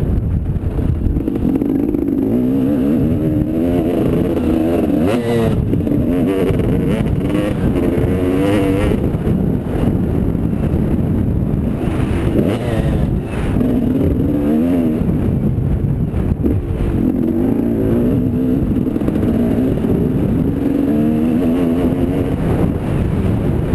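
Motocross motorcycle engines revving, the note rising and falling again and again as the throttle is opened and shut, over a low rumble.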